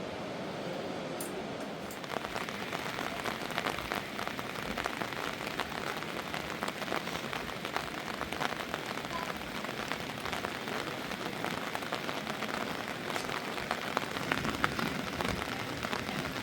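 Heavy rain falling, many drops striking a surface in a dense stream, growing heavier about two seconds in.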